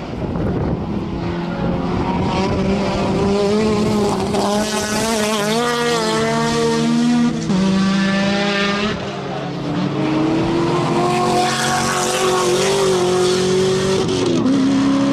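Sport compact race car engine pulling hard under load. Its pitch climbs slowly and steps down sharply twice, about halfway through and again near the end, as gears are changed.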